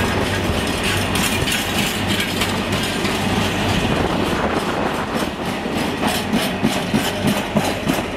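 A freight train of empty container flat wagons rolling past, its wheels clattering over the rail joints over a steady low hum. Near the end the clatter breaks into separate clacks as the last wagons go by.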